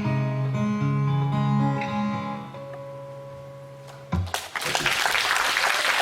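Acoustic guitar playing the closing notes of a song, with the last note ringing out and fading. About four seconds in the audience starts applauding.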